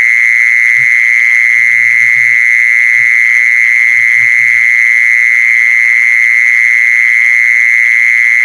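Continuous, steady, loud animal call at a single high pitch, an unbroken trill that does not waver: the kmol call played to lure female kmol. Faint short low sounds come and go underneath.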